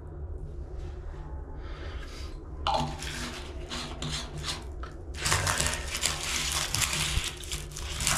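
Brush scrubbing glue activator onto the rubber of a tire at the patch area: a scratchy rubbing that starts about three seconds in and gets louder and denser about five seconds in, over a steady low hum.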